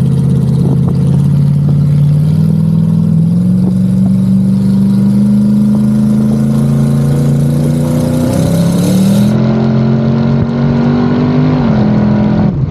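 Twin-turbocharged LS V8 of a Pontiac G8 under way, its engine note climbing gradually in pitch with a brief dip and climb again about eight seconds in, then falling off near the end.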